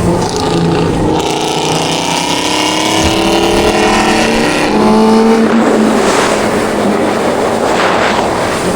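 Suzuki GSX-R600 inline-four engine accelerating, its pitch rising for a few seconds, then dropping at a gear change about five seconds in and running steadier, with wind rush over the microphone.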